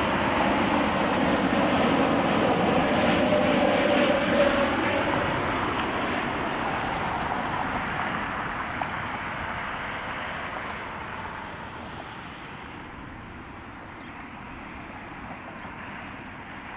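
Jet engines of an Airbus A321neo (Pratt & Whitney geared turbofans) passing: a steady rushing roar with a low hum that peaks a few seconds in and then fades away.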